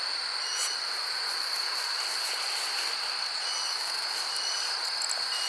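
Insects trilling in a steady high-pitched chorus, with a few faint short chirps over it.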